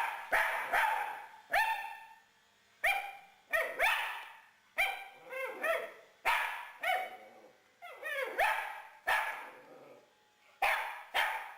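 Chihuahua barking over and over, about twenty sharp barks, often two or three in quick succession.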